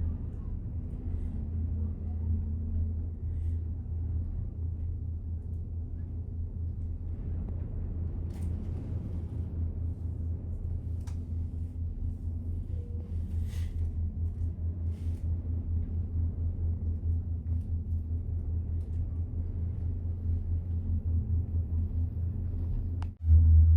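Steady low rumble of a gondola cabin travelling along its cable, with a few faint clicks. Just before the end it briefly drops out and comes back louder.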